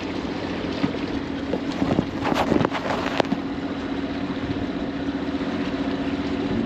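Sailboat's auxiliary engine running steadily at low revs, with a short run of sharp knocks and clatter about two to three seconds in.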